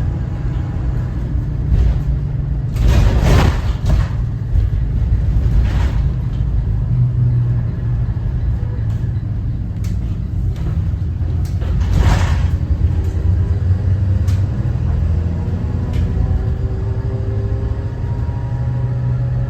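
Cummins ISB 6.7 inline-six turbo diesel in a Thomas Saf-T-Liner C2 school bus running under way, with a steady low rumble whose pitch shifts with engine speed. Two short hissing rushes come about three seconds in and again about twelve seconds in.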